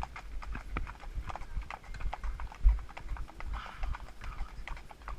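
A ridden horse's hooves clip-clopping in a steady run of rapid hoofbeats, over low thudding, with one louder thud about two and a half seconds in.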